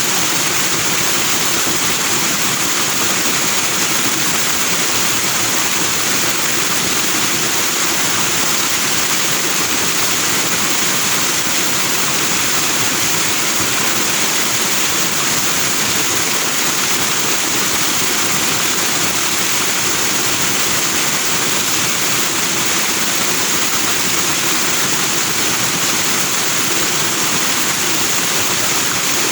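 Forest stream rushing over rocks with white foam, a steady unbroken hiss of flowing water.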